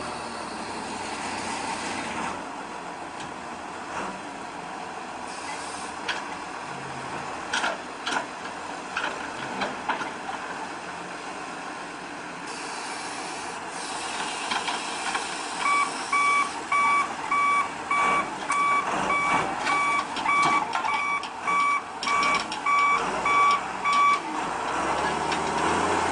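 Heavy machinery running at a scrap-car loading job, with several sharp knocks in the first half. About two-thirds of the way in, a reversing alarm starts beeping steadily about twice a second and stops shortly before the end.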